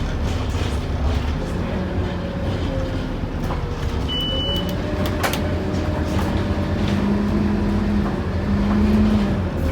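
Scania N230UD OmniCity double-decker bus heard from on board, its five-cylinder diesel and drivetrain running under way, with a steady low rumble. From about six and a half seconds in, a tone rises and grows louder as the bus pulls harder. A short electronic beep sounds about four seconds in.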